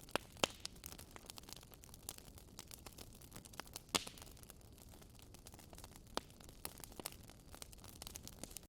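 Wood fire burning in a fireplace: irregular crackles and sharp pops over a low hiss, with the loudest pops a little after the start, about four seconds in and about six seconds in.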